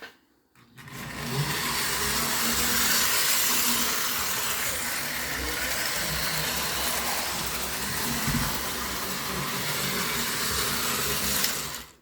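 Postwar Lionel 2036 O-gauge steam locomotive running on tubular three-rail track: a steady hiss and rumble of the motor and wheels on the rails. It starts about a second in and cuts off suddenly just before the end.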